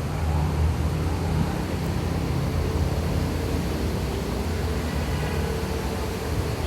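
An engine running steadily at idle: a low, even rumble.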